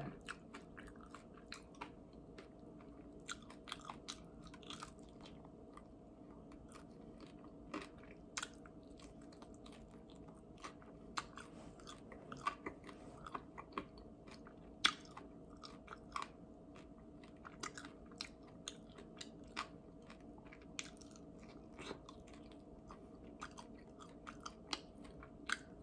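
A person chewing barbecue chicken wings close to the microphone, heard as scattered soft mouth clicks and crunches over a faint steady hum.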